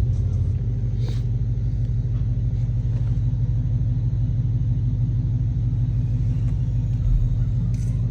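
Dodge SRT Hellcat's supercharged 6.2-litre V8 idling steadily, with an even low tone.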